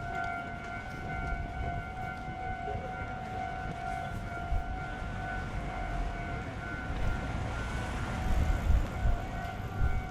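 Wind buffeting the microphone in gusts, strongest about eight seconds in, under a steady high whistling tone with overtones that fades near the end.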